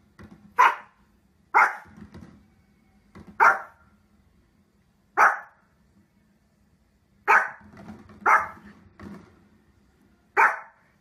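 A Pomeranian barking in sharp, loud single barks, about seven of them one to two seconds apart, with a few fainter barks between.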